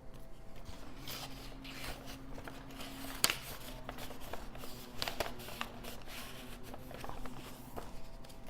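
Paper and card rustling and crinkling as the pages, cards and pockets of a handmade junk journal are handled and turned, with small clicks throughout and one sharp tap about three seconds in. A faint steady hum runs underneath.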